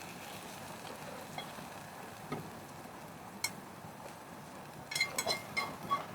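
A faint steady hiss with a few light taps, then a quick run of ringing clinks near the end.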